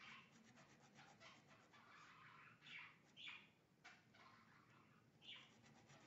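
Pet birds chirping faintly: about five short chirps, each falling in pitch, with a faint scratch of a fine-tip ink pen on paper between them.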